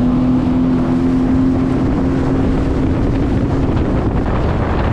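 Sea-Doo jet ski under way, its engine holding a steady whine that rises a little at the start, with the rush of wind and water over it; the engine tone fades into the rushing noise after about three seconds.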